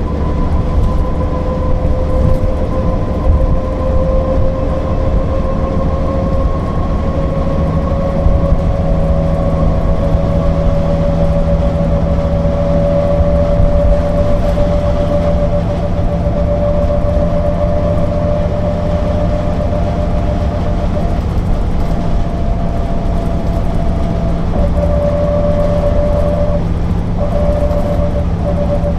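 Mercedes-Benz O408 bus driving: a steady low rumble of engine and road with a whining tone that rises slowly in pitch over roughly the first ten seconds, then holds level, dipping briefly near the end.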